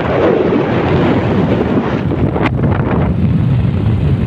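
Wind buffeting the microphone: a loud, steady rushing, with a single sharp click about two and a half seconds in.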